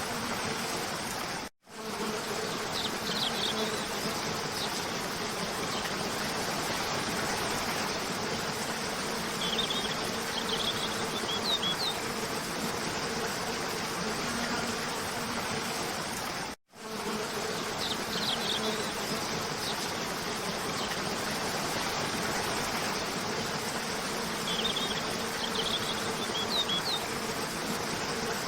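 Waterfall cascading in a steady, even rush. Short, high bird chirps come in small clusters a few times. The whole sound drops out for an instant twice, about fifteen seconds apart, where the looped track restarts.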